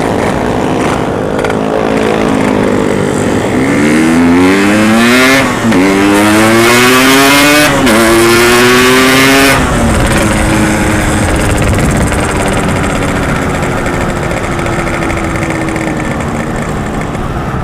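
Yamaha RX-King's two-stroke single-cylinder engine accelerating hard through the gears. Its note rises three times, dropping at each of two upshifts. It then falls away as the throttle closes and settles into a lower, steady note.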